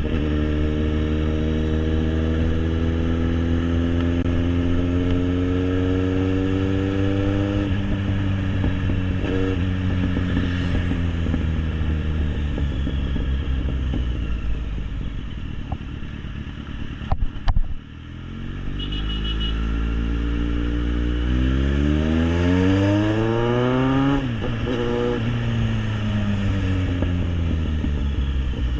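Kawasaki Z800's inline-four engine through an SC-Project exhaust, ridden at speed with wind noise: the note climbs slowly, drops off about eight seconds in, then after a few sharp knocks in the middle it revs up hard and falls away again near the end.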